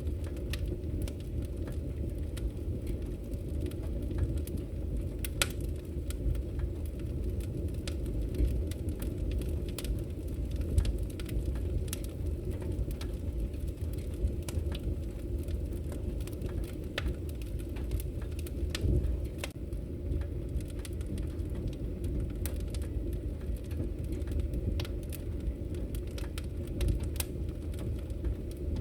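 Wood fire in a fireplace crackling: a steady low rumble of burning with scattered sharp pops and snaps.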